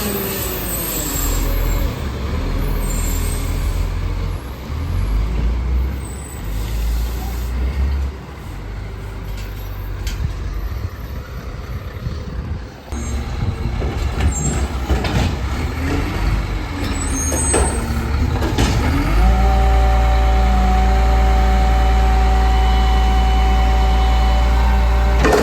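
Garbage truck's diesel engine running, with a brief air hiss at the start and a few clanks. About 19 seconds in the engine speeds up and holds a loud, steady drone.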